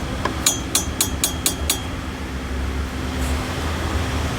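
A quick run of about six sharp metallic clicks, roughly four a second, from hand-tool work under the car, over a steady low hum.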